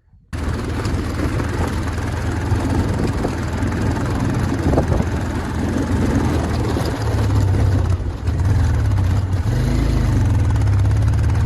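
Motorcycle engine running as the bike is ridden, a steady low drone under a broad hiss; it cuts in suddenly just after the start.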